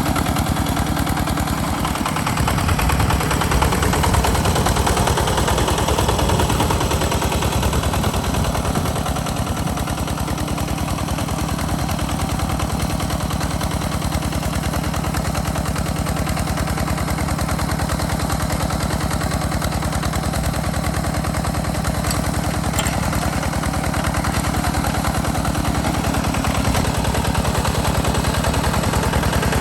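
Walking hand tractor's single-cylinder diesel engine running steadily while plowing, with a rapid, even chugging.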